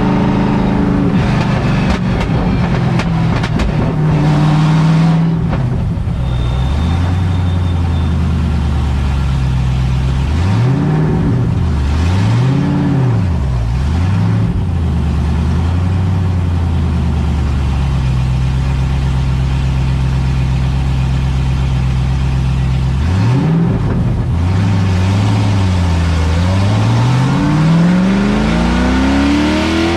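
LS3 V8 engine of a swapped Mazda Miata race car, heard from inside the caged cockpit. The revs fall over the first few seconds, settle low with a few short rises and falls, then climb steadily near the end as the car accelerates.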